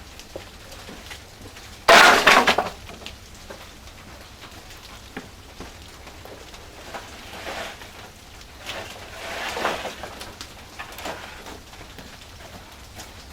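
A loud clattering crash of hard objects about two seconds in, followed later by two softer rattling clatters.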